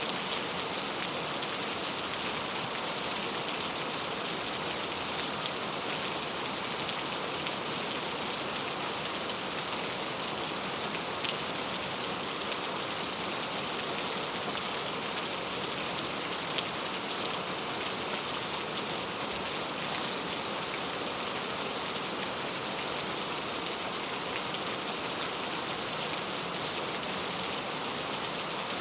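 Steady rain falling on a hard surface, an even patter with a few sharper individual drop hits standing out now and then.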